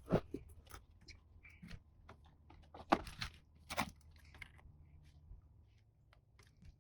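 A plastic motor oil jug being opened: quiet crinkling and tearing of the seal, with three louder sharp clicks spread through the handling.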